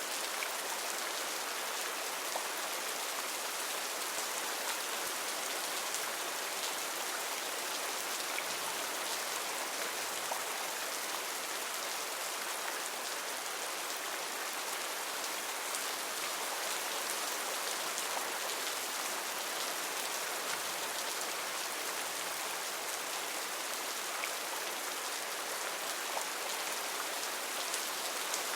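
Heavy rain falling steadily: a dense, even hiss of drops, with faint ticks of single drops through it.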